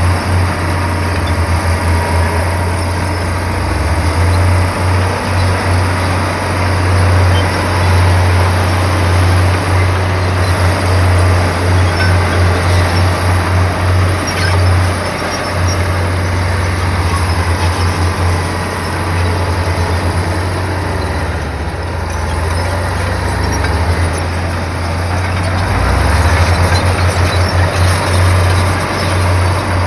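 Diesel engine of a heavy earthmoving machine running, a low pulsing rumble under steady mechanical noise.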